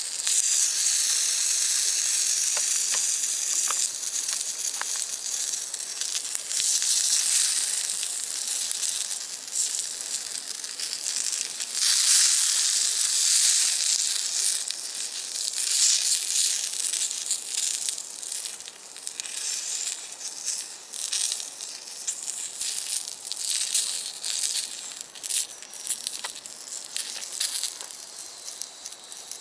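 Food sizzling in a cast-iron skillet over a wood fire: a steady, dense hiss full of small spits and crackles that slowly dies down over the second half.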